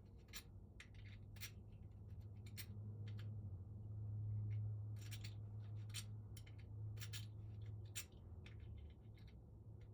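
A key being pushed in and pulled out of a freshly lubricated deadbolt lock cylinder, with many sharp metallic clicks from the key and pins, over a low steady hum.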